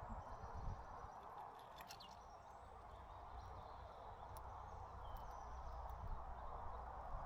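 Small birds giving a few faint, brief chirps at a seed feeder, over a steady outdoor background noise.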